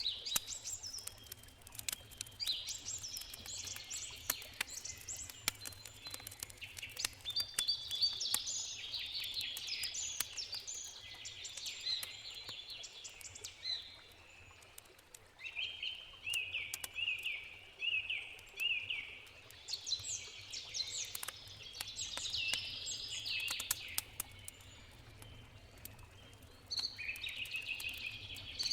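Songbirds singing and chirping over the scattered pops and crackles of a wood campfire. Around the middle, one bird gives a quick run of about five repeated chirps.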